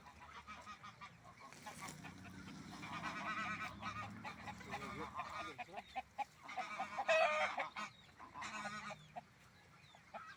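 Farmyard poultry calling: several bouts of rapid, wavering calls, the loudest about seven seconds in, from a bird that is guarding its young.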